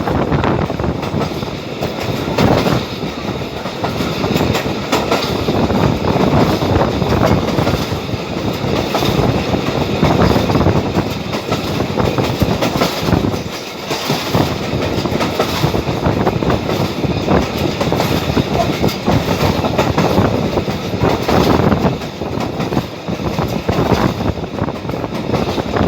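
Passenger train running at speed, heard from aboard: a steady rumble with the wheels clattering over the rail joints.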